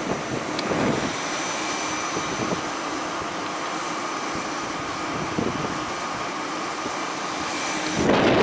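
ICE 3 high-speed train running along the platform: a steady rushing rumble with a faint whine on top. Near the end a loud gust of wind noise hits the microphone.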